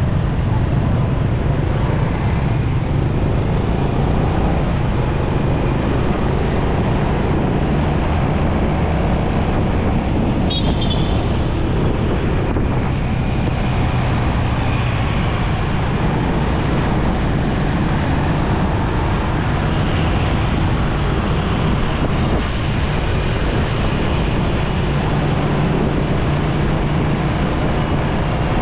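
Motorcycle riding through road traffic: its engine running at a steady cruise with a low hum, mixed with tyre and wind noise and the passing traffic around it.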